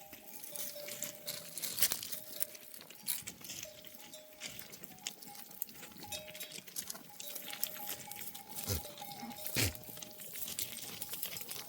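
A grazing flock of sheep and goats: many small clicks and crunches of hooves and grazing on stony ground, with faint bells ringing on and off at a couple of fixed pitches.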